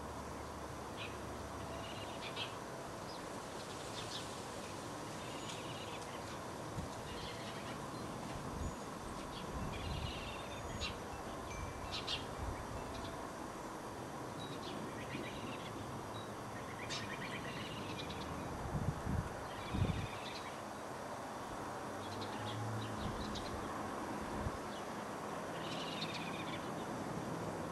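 Backyard birds giving short, high chirps and calls, scattered every second or so over a steady background hiss. A few low thumps come about two-thirds of the way in.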